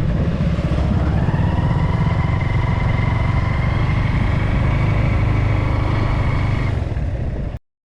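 Motorbike engine running on the move, its whine rising about a second in and then holding steady. The sound cuts off suddenly near the end.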